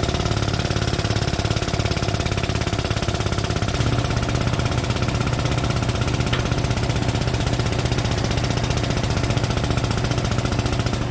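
An engine running steadily, with a fast, even chugging pulse and a low hum.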